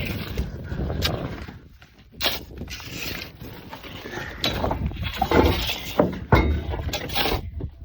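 Shovels scraping into and tossing dirt and gravel, in irregular bursts with a brief lull about two seconds in.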